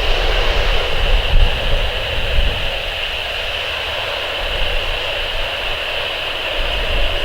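Jet airliner engines running steadily: a continuous rushing noise with a high whine held on one pitch, over a gusty low rumble.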